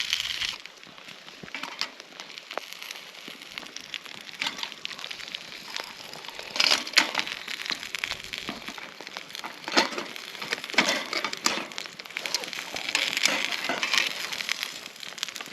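Chicken frying in oil in a pan, crackling and popping irregularly, with louder flurries of pops about 7, 10 and 13 seconds in.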